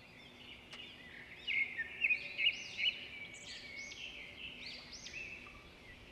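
Songbirds singing: quick whistled chirps and warbling phrases over a faint outdoor background, growing louder about a second and a half in.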